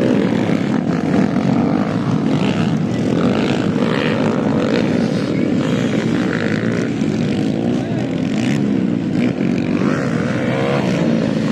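Several motocross bikes' engines running together during a race, a dense continuous drone with engines revving up and down as they pass.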